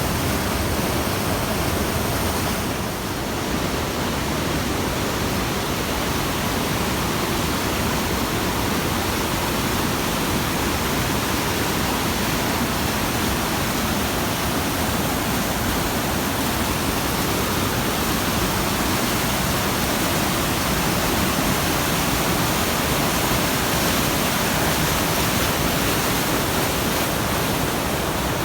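A big waterfall and stream rushing, making a steady, dense wash of water noise.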